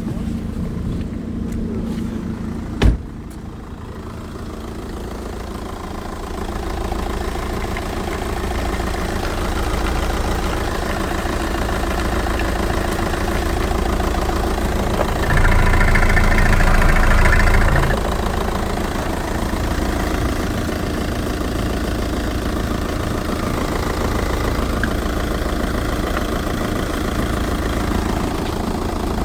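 Skoda Octavia's 2.0 TDI Pumpe-Düse four-cylinder diesel engine (BKD) running on an engine test. There is one sharp knock about three seconds in, and the engine is louder for about three seconds around the middle.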